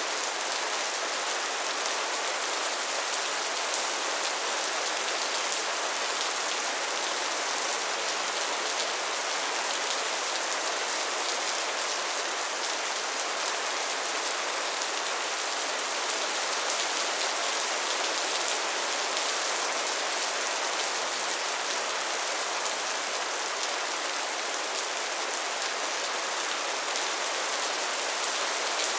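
Steady rain pattering on a tin roof: a dense, even hiss of drops on sheet metal that holds the same level throughout.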